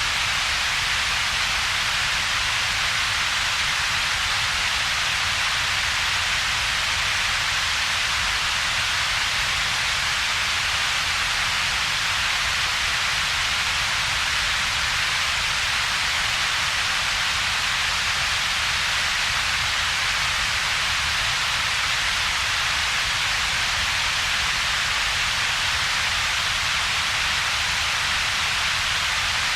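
Synthetic double-peaked noise, steady and unchanging: a strong hiss centred around a few kilohertz over a weaker low rumble, with a gap between them.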